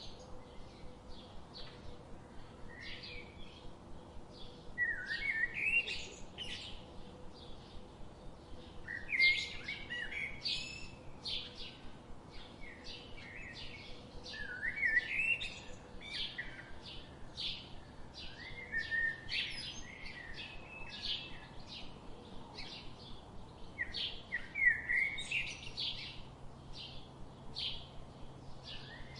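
Songbirds chirping and singing: a steady run of short, quick chirps, with a louder warbling phrase every four to six seconds.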